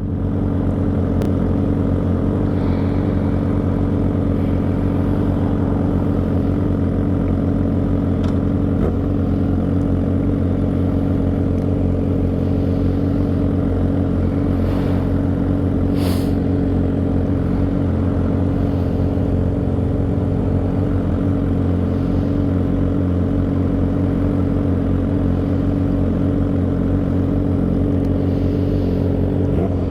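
Motorcycle engine running at a steady, unchanging speed, with one short high tick about sixteen seconds in.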